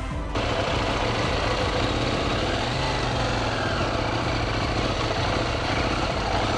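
KTM 790 Duke's parallel-twin engine idling steadily, with an even hiss of outdoor noise underneath.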